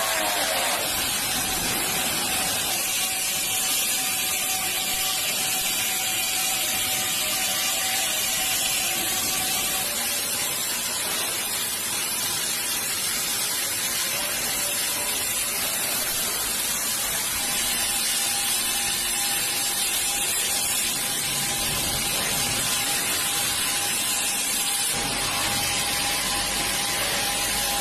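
Truck assembly-plant noise: a steady hiss like compressed air, with faint steady machine tones and a brief gliding whine near the start and again near the end.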